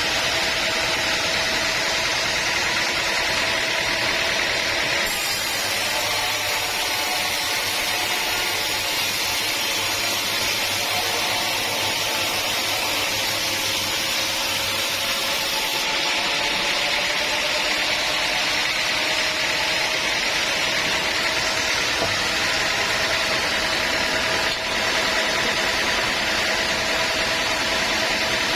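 Sawmill machinery running steadily: a constant noisy drone with a faint whine that shifts slightly in pitch around the middle.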